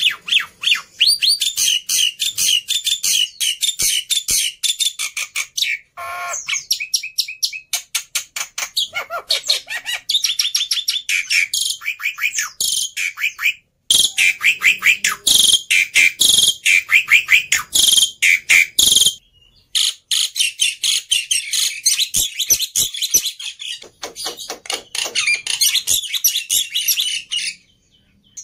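Black-winged myna (jalak putih) singing a long, fast, varied song of rapid high chirps and trills, broken by a few short pauses and the odd lower call.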